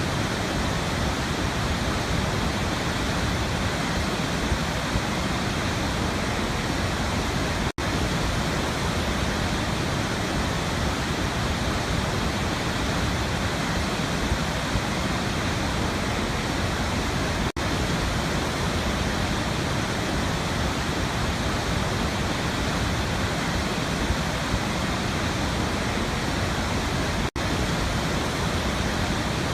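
Waterfall: a steady, even rush of falling water, with three very brief dropouts about ten seconds apart.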